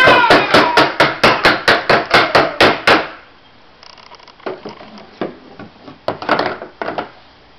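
A toddler banging with a hammer in a quick run of about five blows a second for some three seconds, then a few scattered, quieter taps.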